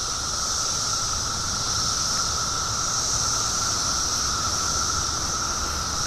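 Chorus of periodical cicadas singing: a steady, unbroken drone made of a lower buzzing tone and a higher hiss.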